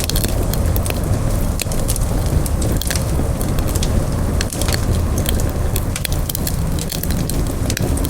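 Wood campfire crackling, with frequent sharp irregular pops over a steady low rumble of burning.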